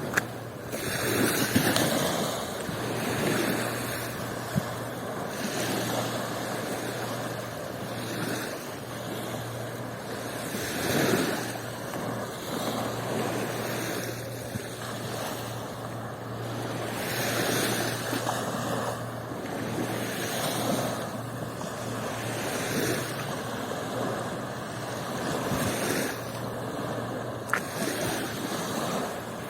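Sea waves washing onto a beach, the surf noise swelling and ebbing every second or two, over a steady low hum.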